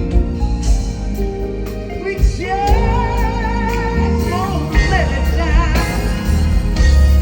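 Live soul ballad: a band with strong bass under a sung vocal line that comes in about two seconds in with wavering runs and vibrato.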